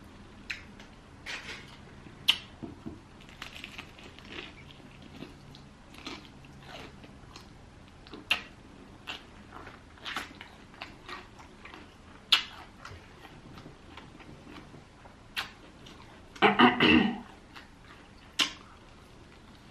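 Close-miked chewing of fried chicken: wet smacking and crisp crunching clicks at an irregular pace. A brief burst of voice comes about three-quarters of the way through.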